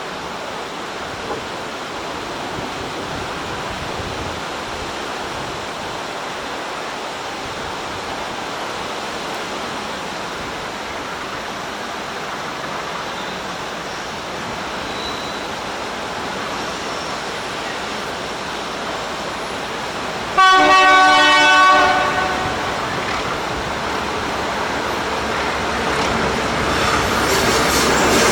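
Steady hiss of rain, then about two-thirds of the way through a single horn blast of over a second from Alco diesel locomotive 844. After the blast the train's approach grows steadily louder near the end.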